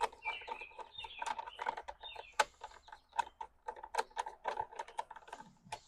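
Small metal parts and hand tools clicking and clattering irregularly as a lawnmower is put back together.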